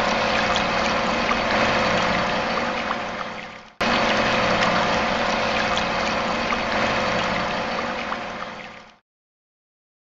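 Small home-made water pump running, a steady motor hum over rushing, splashing water. It breaks off abruptly about four seconds in, starts again at once, and fades out about a second before the end.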